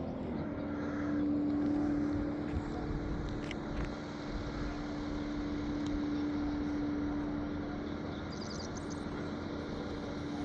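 A distant vehicle engine running at a steady pitch.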